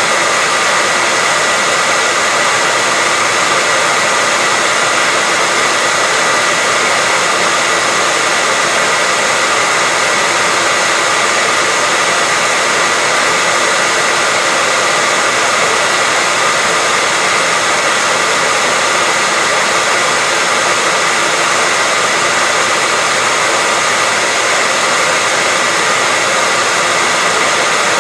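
Electric hairdryer running steadily: an even, unbroken hiss of rushing air with a faint motor whine, without any change in speed or setting.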